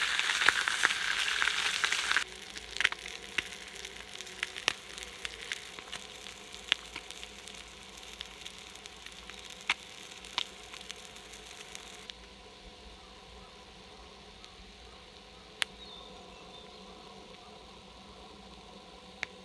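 Butterflied Pacific saury frying on a hot iron griddle over a campfire. A loud, dense sizzle cuts off sharply about two seconds in, leaving a quieter hiss with scattered sharp pops and crackles that grows fainter again around twelve seconds.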